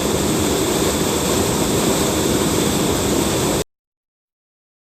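Steady rushing of a mountain stream's water, an even noise with no rhythm. It cuts off abruptly about three-quarters of the way through, leaving dead silence.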